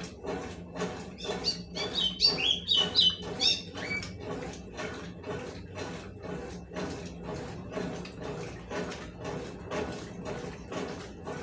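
Consul 12 kg washing machine washing towels: a steady motor hum under rhythmic swishing of the wash load, about three strokes a second. From about a second in, for some three seconds, a string of high chirping squeaks rises over it.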